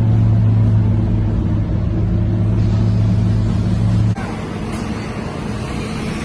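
Scania K230UB bus's diesel engine running hard under full throttle at steady revs, a loud low drone that cuts off abruptly about four seconds in, leaving only wind and road noise.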